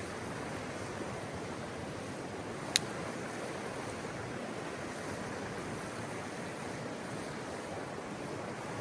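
Steady rushing of flowing water, like a mountain stream, with one sharp click about three seconds in.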